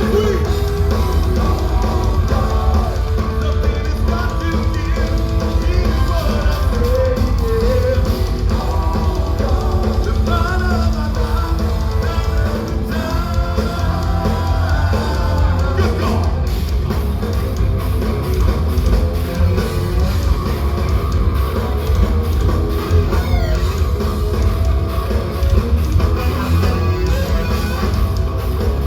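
Progressive metal band playing live at full volume: distorted electric guitars, bass and drum kit, with a heavy, boomy low end.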